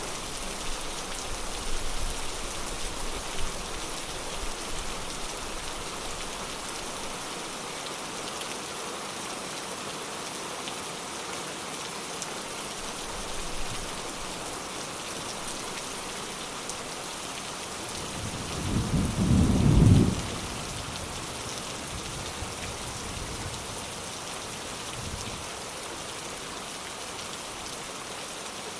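Steady rain falling throughout, with a rumble of thunder about two-thirds of the way in that builds for a couple of seconds and then stops sharply. Fainter low rumbles come in the first few seconds.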